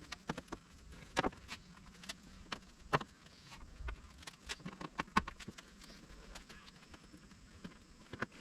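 Irregular light clicks and taps of plastic push-on clips being pressed back in to hold the hood insulation pad, with a few sharper snaps about a second in and about three seconds in.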